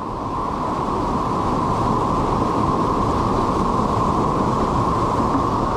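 Steady rush of whitewater churning through a river hole, an even roar with no breaks.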